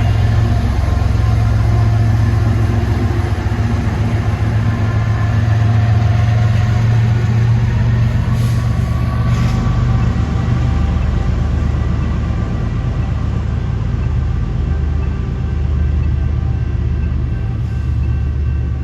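Train rolling past at close range: a loud, steady low rumble with a faint ringing tone above it, and a few brief hisses partway through.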